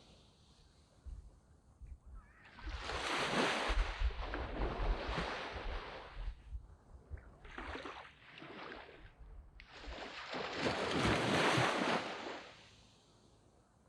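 Waves breaking and washing up a sand beach in surges: a long wash beginning about two and a half seconds in, a smaller one just before the middle, and another long wash about ten seconds in, with quiet lulls between them.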